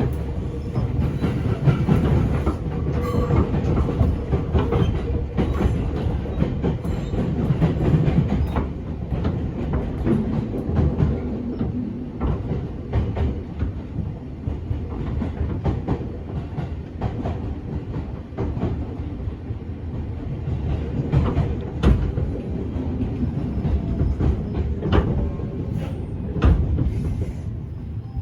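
Interior running sound of a 205 series 500 subseries electric train, heard from inside a motor car: a steady low rumble of wheels on rail, with scattered clicks over rail joints. The sound grows quieter near the end.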